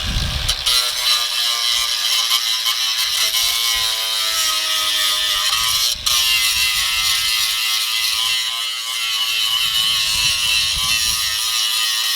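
Cordless power tool cutting through sheet-steel tabs in a BMW E36 engine bay, a harsh continuous grinding with a wavering whine underneath. It breaks off for an instant about halfway and stops abruptly near the end.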